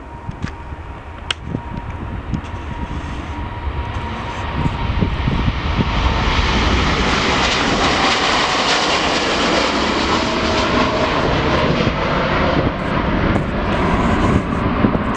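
Airliner's engines growing steadily louder over the first six seconds, then holding at a loud, even roar with a faint whine, as the plane passes close by.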